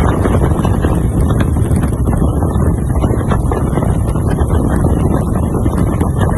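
BSA WM20's single-cylinder side-valve engine running steadily, with heavy wind rumble on the microphone.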